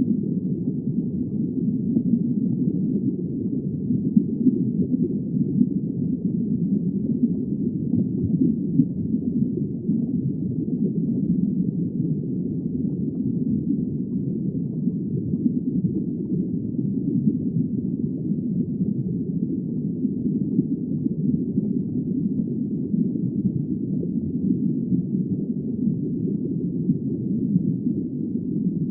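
Steady, muffled low rumble of underwater ambience, with no high sounds at all and no change throughout.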